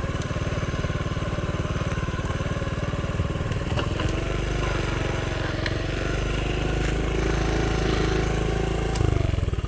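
Honda CT70's small single-cylinder four-stroke engine running steadily at low speed on a trail ride, briefly louder about nine seconds in and starting to slow at the very end.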